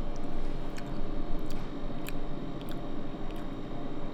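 A person chewing a mouthful of food, with a handful of light clicks spread through.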